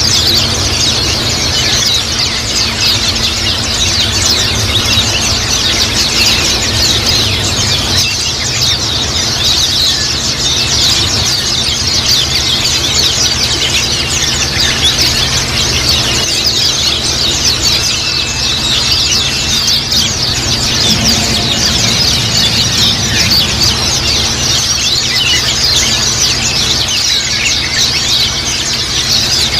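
A dense chorus of many white-eyes (pleci) chirping and twittering rapidly, a continuous high-pitched chatter with no pauses, over a steady low hum.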